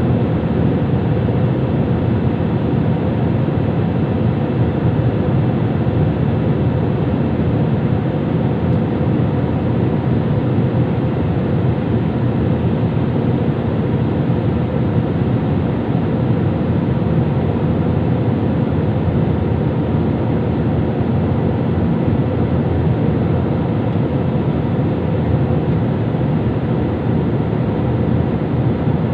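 Steady engine and air noise inside an airliner's passenger cabin, a loud even rumble with a few faint steady tones.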